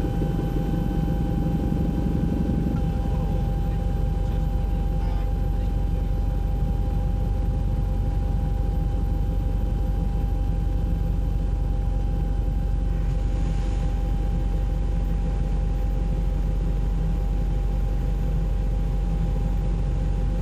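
Helicopter cabin noise: a steady engine and rotor drone with a thin steady whine above it, unchanging throughout.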